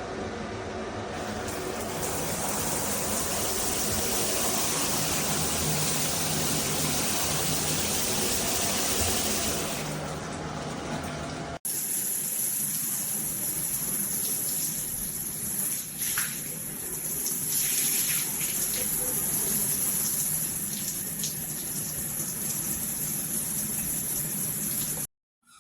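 Water spraying steadily from a gotonovo rainfall shower system. The spray sound changes abruptly a little over halfway through.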